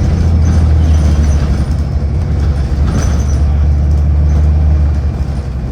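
MBTA transit bus's engine running, heard inside the passenger cabin as a steady low hum, with a short knock about three seconds in.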